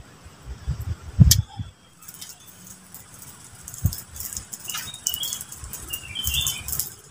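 Small birds chirping in short high notes, in clusters from about two seconds in, with scattered faint clicks. In the first two seconds there are a few low thumps, one sharper and louder than the rest.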